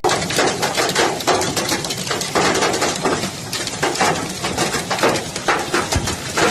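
Hailstones pelting a hard surface: a dense, irregular patter of sharp hits.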